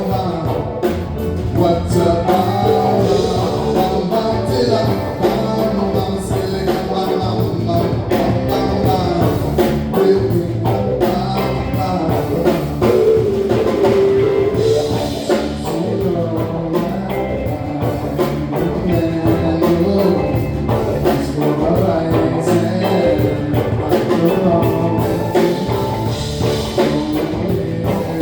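Live band music with drum kit and electric guitar, a steady beat and a melodic line that may include singing.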